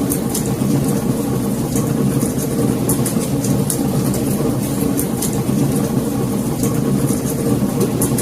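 Wood fire in a fireplace crackling: frequent irregular sharp crackles and pops over a steady low rumble.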